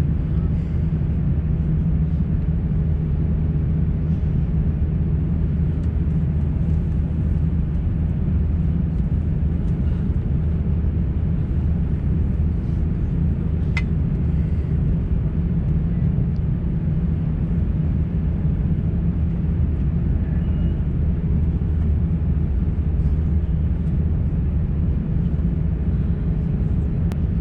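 Steady low hum of an Airbus A350-900 passenger cabin heard from a window seat, with a brief tick about halfway through.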